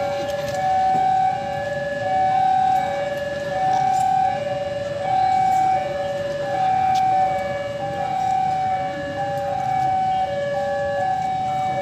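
Railway level-crossing warning alarm sounding, an even two-tone high-low chime repeating steadily: the crossing is closed for an approaching train or shunting locomotive.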